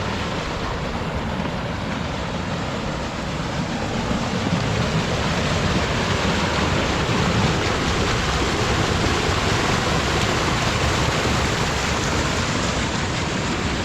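Waterfall rushing steadily, a little louder from about four seconds in.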